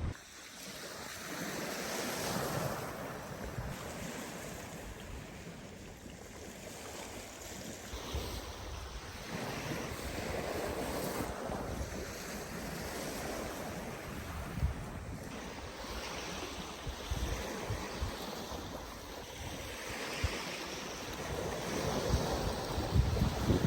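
Sea waves washing onto the shore, swelling and fading every several seconds, with wind gusting on the microphone.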